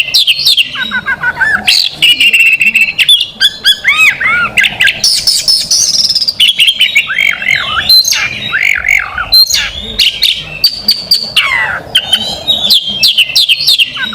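Oriental magpie-robin (kacer) singing loudly and without pause: a varied song of rapid runs of short sliding notes, held whistles and sharp clicking chatter.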